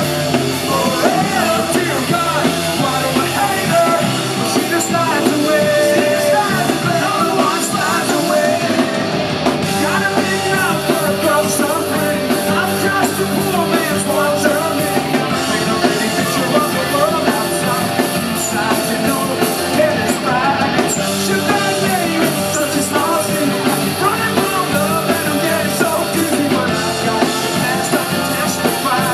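Rock band playing a song live, loud and continuous.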